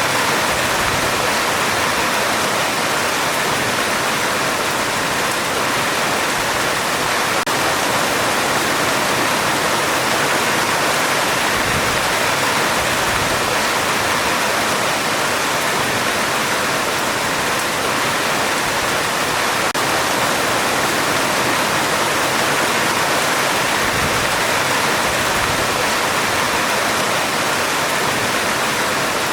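Heavy rain falling on a metal roof: a dense, even hiss that stays steady throughout, with no thunder.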